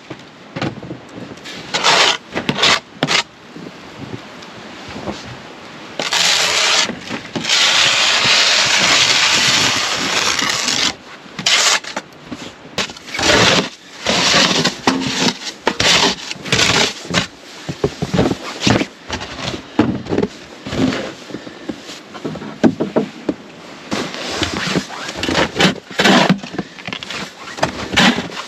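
Irregular scraping and knocking sounds, with a steady rush of noise from about six seconds in that stops about five seconds later.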